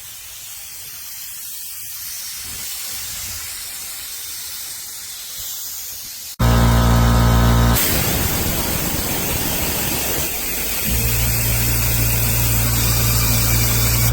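Steady hiss of escaping compressed air for about six seconds. Then the VEVOR 4.8-gallon oil-free air compressor's motor suddenly starts and runs loudly, with a low hum that shifts and settles after a few seconds.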